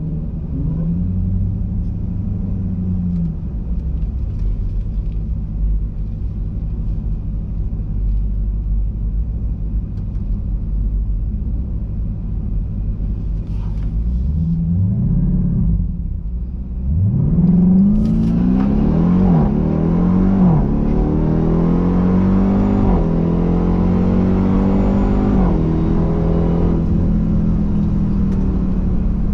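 Dodge Hellcat's supercharged V8 engine idling with a low, lumpy rumble, then blipped up and down a few times about halfway through, then settling at a steady raised speed.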